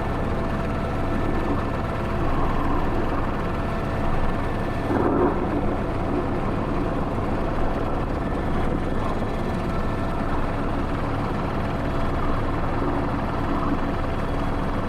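Airbus H125 (AS350 B3) helicopter running steadily in slow flight with a sling load, its turbine and rotor noise heard from inside the cockpit.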